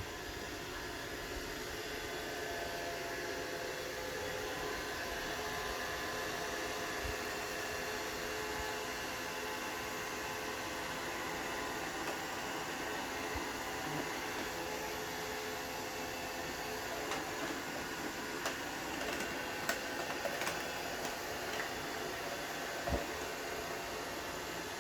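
Roomba robot vacuum running steadily, its motors and brushes whirring, with a few short clicks or knocks in the second half.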